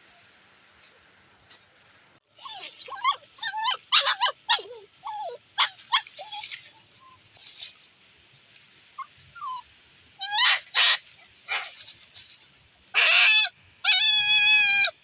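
A puppy whimpering and yelping in a run of short calls that bend up and down in pitch, starting about two seconds in, with a louder, steadier call near the end.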